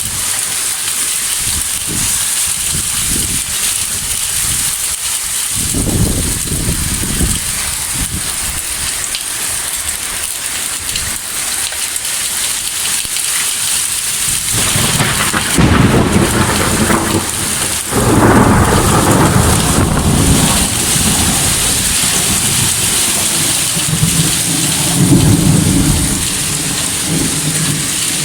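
Heavy thunderstorm downpour: rain hisses steadily while low rumbles of thunder swell several times, loudest past the middle and again near the end.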